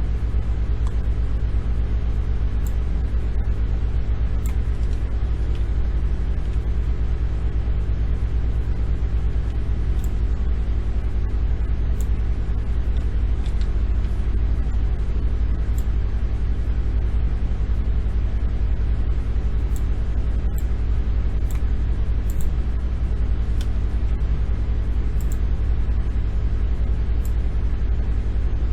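Steady low rumble with a hum in it, unchanging throughout, with scattered faint short ticks.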